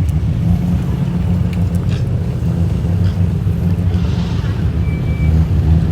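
Car engine running at low speed nearby, a steady low rumble.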